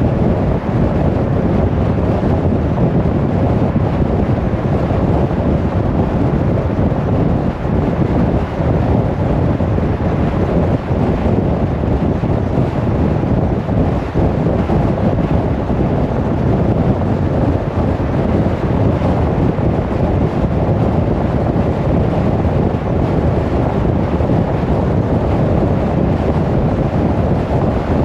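Steady road and wind noise of a car driving at motorway speed, an even low rush with no breaks.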